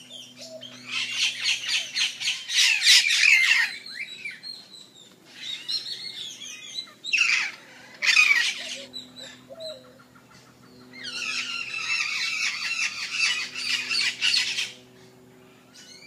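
Birds in the tree canopy giving harsh, rapidly repeated calls in several loud bursts, the longest about a second in and again in the last few seconds, with shorter calls in between.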